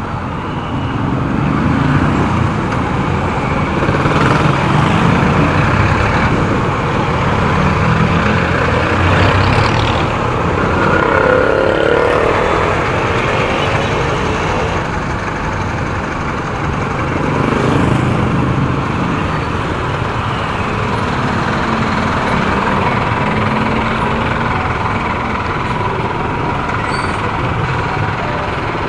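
Road traffic heard from a motorcycle moving through heavy stop-and-go city traffic: a steady din of nearby car, truck and bus engines, with engine pitch rising and falling a few times.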